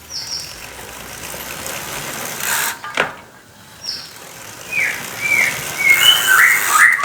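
Bicycle freewheel clicking and whirring as the rear wheel is turned to test it after servicing. No rough or odd noise is heard from it, so the repair has cured the fault.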